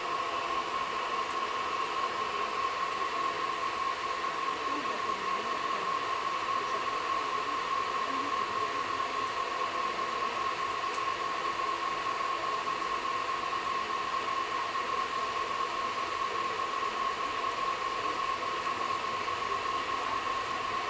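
Steady running noise inside an air-conditioned train coach on the move: an even hiss with a constant whine held on one pitch throughout.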